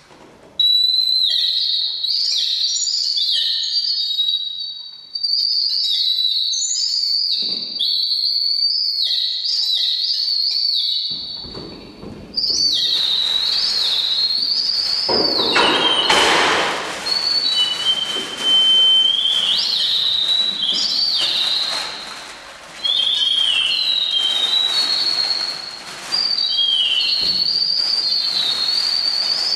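Birds twittering: a dense, continuous run of short, high chirping notes that glide up and down. A hiss of noise joins about eleven seconds in.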